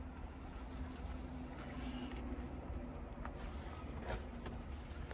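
Faint scattered taps and rustles of a roofing shingle being handled and slid into place, over a steady low rumble and a faint hum.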